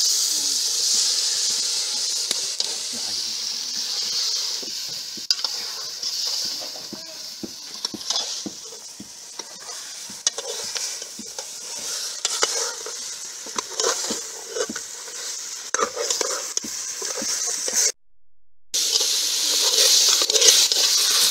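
Chicken pieces sizzling in hot oil in an aluminium pot, stirred with a metal ladle that knocks and scrapes against the pot. The sizzle is loudest at the start and again near the end, with many short ladle knocks through the middle and a brief cut-out shortly before the end.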